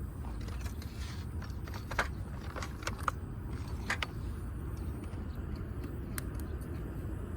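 Firewood burning in a wood-grill fire pit: scattered sharp crackles and pops, a handful of them louder about two to four seconds in, over a steady low rumble. The wood is damp and slow to catch.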